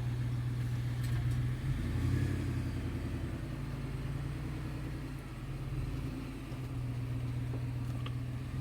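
Ford F-150 pickup's engine running at low revs, heard from inside the cab as a steady low hum, its note shifting briefly about two seconds in.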